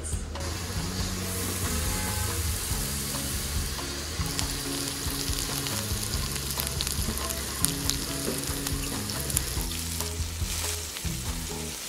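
Mushrooms sizzling as they fry in a pan, with scattered small pops throughout, over quiet background music.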